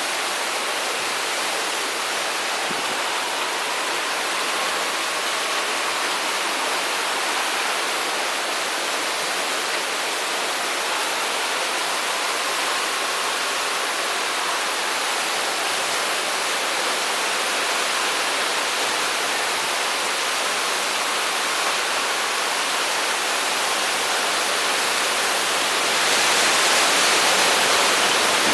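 Typhoon wind and heavy rain making a steady rushing noise, with a faint whistle that wavers up and down. The noise swells louder and hissier near the end.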